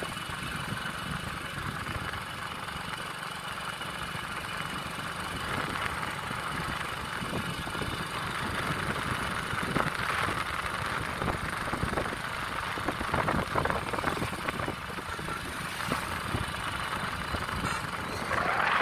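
Vehicle engine and road noise on the move: a steady running hum with low rumble and crackly buffeting, swelling louder at the very end.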